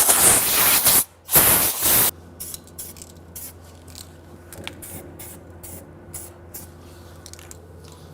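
Aerosol can of primer spraying: two loud hisses of about a second each, then a string of short, much quieter spritzes.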